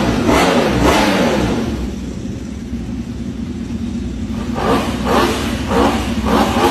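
A superbike's engine is revved in short blips. Two come in the first second, then it runs steadily, and four quick blips about half a second apart come near the end.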